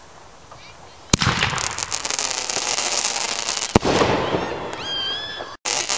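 Consumer fireworks going off. A sharp bang comes about a second in, followed by dense rapid crackling. A second bang comes partway through, then more crackling. A brief high-pitched tone sounds about five seconds in.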